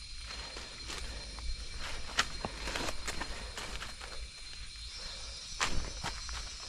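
Footsteps on the jungle floor, irregular crunches and snaps of dry leaves and twigs underfoot. A steady high-pitched hum joins about five seconds in.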